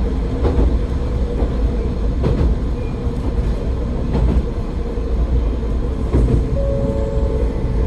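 AN-8800 diesel railcar running along the line: a steady low rumble of engine and wheels, with a few clacks as the wheels cross rail joints.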